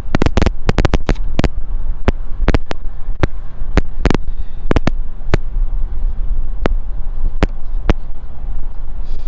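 A string of sharp, irregular metal clicks and knocks, about one or two a second, from hand tools working the pulley off a Thermo King Tripac APU water pump, over a steady low hum.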